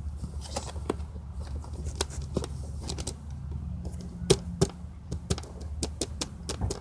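Homemade slime being squeezed and worked in the hands, giving a string of sharp clicks and pops at uneven intervals over a steady low hum.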